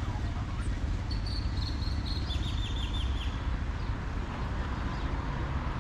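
Outdoor city-park ambience: a steady low rumble under an even hiss, with a small bird giving a quick series of high chirps about a second into the sound.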